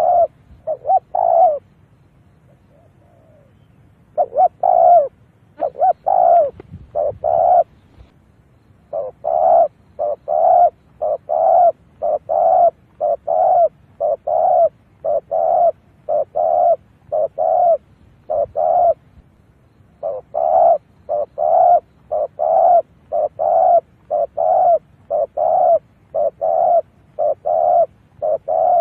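Spotted dove (cu gáy) cooing over and over in short, even notes about two a second, with a brief pause about two seconds in. This is the decoy dove's call used to draw wild doves to a trap.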